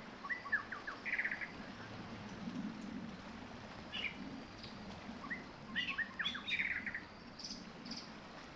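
Small songbirds chirping: clusters of quick falling chirps and a short buzzy trill, the same phrase coming again about every five seconds, over a faint low hum.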